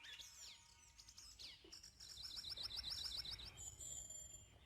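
Faint bird calls: scattered high chirps, then about two seconds in a fast run of high notes, roughly eight a second, lasting about a second and a half.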